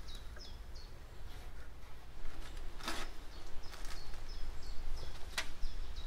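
A small bird chirping over and over, short high notes about three a second, with a few short sharp scrapes or knocks, the loudest about three seconds in and again near the end.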